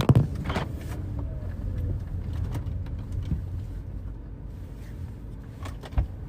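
Low, steady rumble of a car, with a few sharp knocks in the first half second and a single thump about six seconds in.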